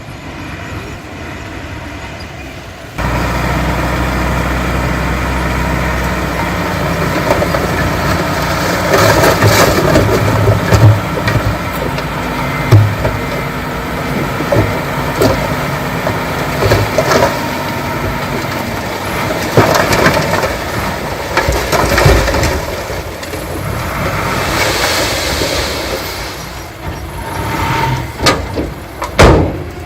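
Heavy diesel earthmoving machinery working: an engine running steadily, stepping up sharply about three seconds in, with repeated metallic clanks and knocks over it.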